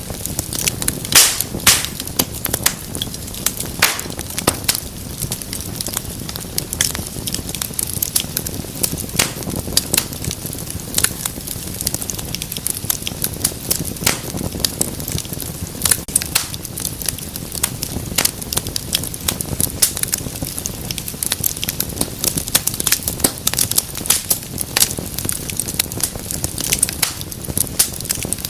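Wood fire burning in a fireplace, crackling and popping at an irregular pace over a low steady rumble of flames.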